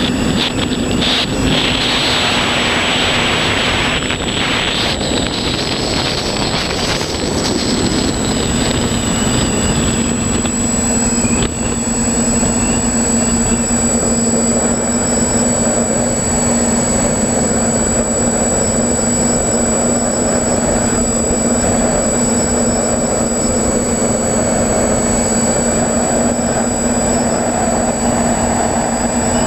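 Quadcopter's electric motors and propellers running steadily in flight, a constant drone heard from the GoPro on the aircraft, with a rush of wind noise in the first several seconds.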